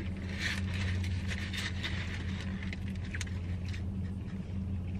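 Chewing a mouthful of sandwich, with the foil-lined paper wrapper crinkling in the hands in short bursts, over a steady low hum.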